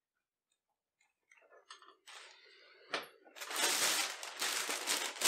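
Sheet of newspaper rustling and crinkling as it is pulled out and handled, starting about two seconds in and loudest near the end.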